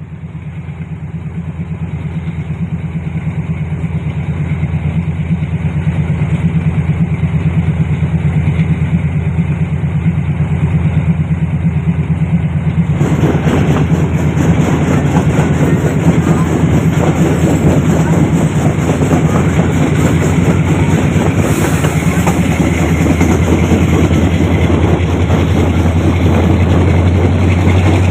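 Train running: a steady low drone fades in at the start, and a louder wash of wheel-and-rail noise joins it about 13 seconds in.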